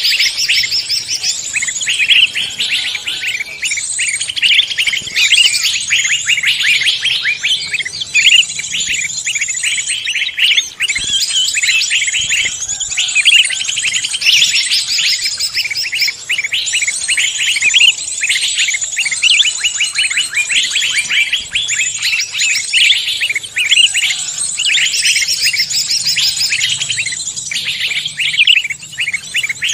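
Many songbirds of mixed species chirping, trilling and singing at once, as a dense unbroken chorus of rapid high notes. It is a mixed songbird recording played as a lure to draw in other birds.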